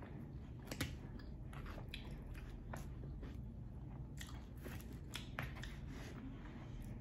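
Close-miked chewing of a mouthful of cheeseburger, with irregular mouth clicks, the loudest about a second in. A steady low hum runs underneath.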